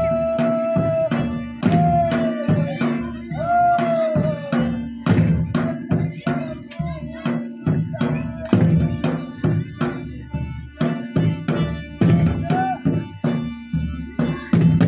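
Live folk dance music: a drum beaten in a quick, driving rhythm, with a high melody line that holds a long note and bends in short phrases over the first few seconds, then drops out and comes back briefly near the end.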